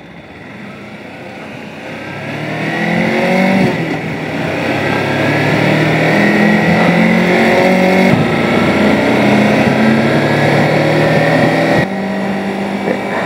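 Motorcycle engine accelerating. Its pitch climbs, falls back at a gear change about four seconds in, then climbs again, and the sound grows louder over the first few seconds.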